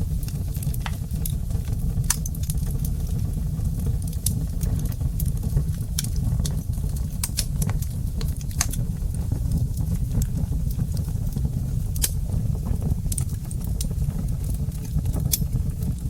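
Wood fire burning in a fireplace: irregular sharp crackles and pops, several a second at times, over a steady low rumble of the flames.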